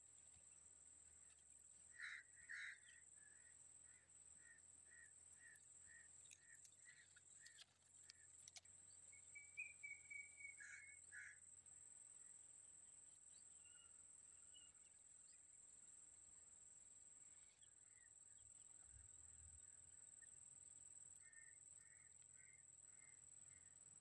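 Faint outdoor ambience: a bird calling in runs of short repeated notes, about two a second, with a steady high-pitched whine underneath.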